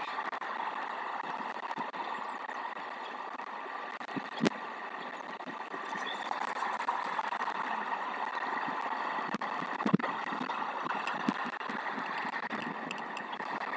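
Steady wind noise on an outdoor nest-camera microphone, with scattered faint knocks and ticks.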